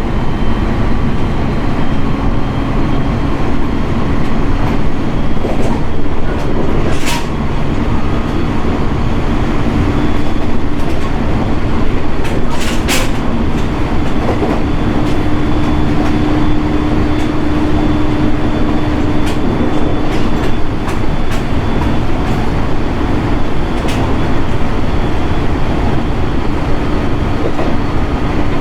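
Running noise inside a JR 701 series electric commuter train at speed: a steady rumble of wheels on rail with a low hum that swells around the middle, broken by a few sharp ticks from the track.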